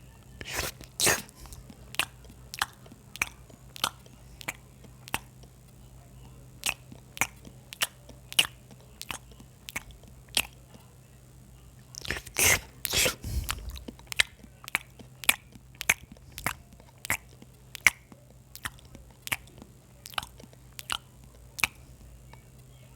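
A person eating close to the microphone: a steady run of sharp chewing clicks and mouth smacks, about two a second, with louder, denser crunchy bites about a second in and again around twelve seconds in.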